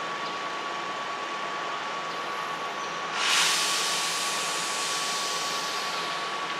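Keihan electric train standing at a station platform: a steady hum with a thin steady high tone, and a sudden burst of air hiss about three seconds in that slowly fades.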